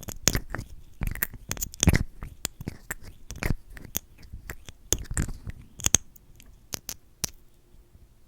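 Close-miked mouth sounds from lips coated in lip gloss: a quick, irregular run of sharp, wet lip smacks and clicks that thins out about seven seconds in.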